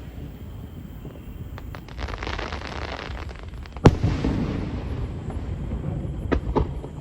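Aerial fireworks bursting: a spell of crackling, then one sharp loud bang about four seconds in with a rumbling tail, and a couple of smaller pops near the end.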